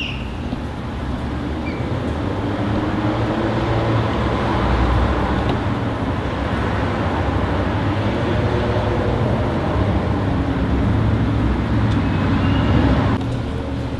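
Motor vehicle engine and road noise close by: a steady rumble that swells over the first few seconds, holds, and cuts off abruptly near the end.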